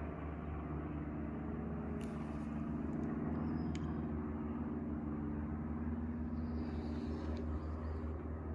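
Steady low mechanical hum holding a few steady tones, with a couple of faint clicks.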